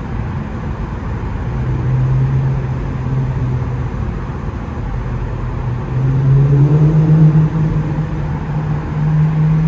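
Muffler-deleted Infiniti Q50's exhaust droning at a steady low pitch, then rising in pitch and getting louder about six seconds in as the revs climb.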